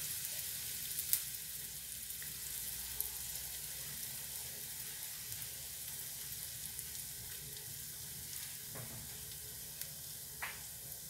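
Chopped onion and garlic sizzling steadily in hot cooking oil, with an occasional faint tick.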